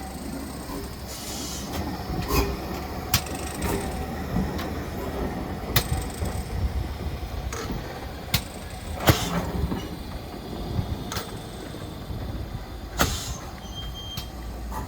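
Heritage steam train running: a steady low rumble of the moving train with irregular sharp clicks and knocks from the running gear and rail joints.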